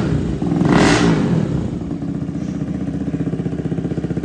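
Motorcycle engine with a loud aftermarket exhaust blipped twice in quick revs, once at the start and again about a second in, then dropping back to a steady idle.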